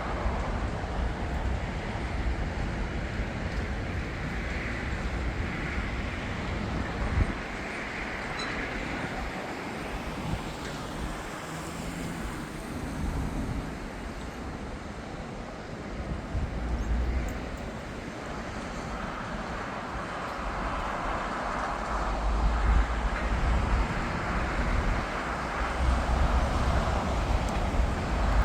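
Jet airliner engine noise at an airport: a steady rushing sound that swells in the second half, with wind buffeting the microphone in gusts.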